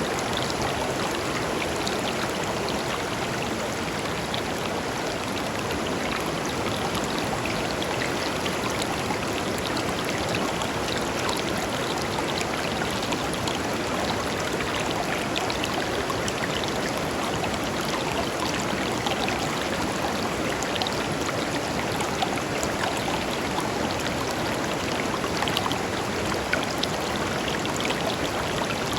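A shallow river running over stones: a steady babble of water with many small splashes and trickles throughout.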